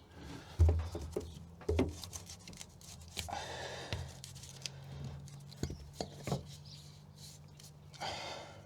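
Handling noise from fitting self-adhesive sound-deadening sheets inside a car body: several separate knocks and thumps with short stretches of rustling.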